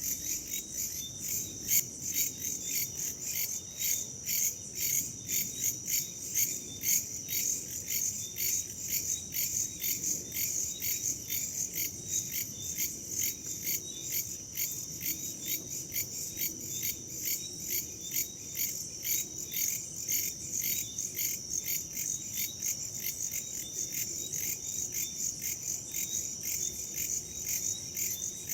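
Crickets chirping in a dense chorus of rapid, evenly repeating high-pitched pulses, with a faint low rush of wind underneath.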